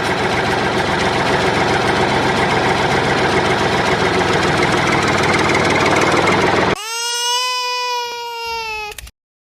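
Tractor engine running steadily with a fast, rough knocking rattle, cutting off suddenly about seven seconds in. It is followed by one wailing cry of about two seconds, like a baby crying, sagging slightly in pitch at the end.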